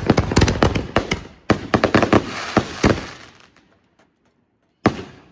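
Small consumer fireworks crackling and popping in a rapid run of sharp reports for about three seconds, thinning out toward the end of the run. A single sharp pop follows near the end.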